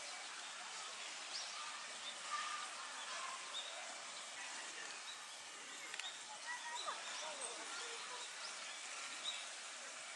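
Outdoor background hubbub of distant people's voices, with many short bird chirps and calls scattered through it.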